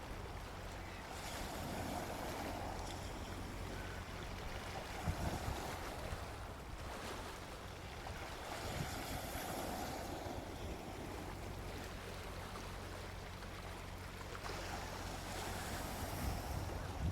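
Gentle sea waves washing onto a beach, the surf swelling and fading every few seconds, over a low rumble with a couple of brief low thumps.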